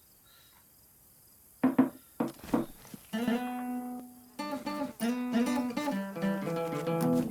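Acoustic guitar starting to play: after a quiet second and a half, a few sharp strums, then ringing chords and picked notes.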